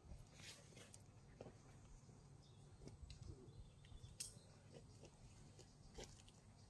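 Near silence: faint outdoor room tone with a few scattered soft ticks and rustles.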